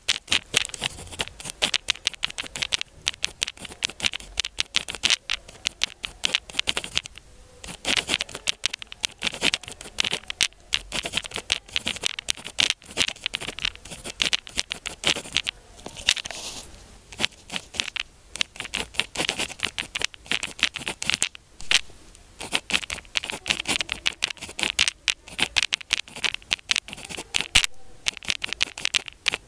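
Pen writing on paper: quick, close-up scratching strokes that run on continuously, broken by a few short pauses between words or lines.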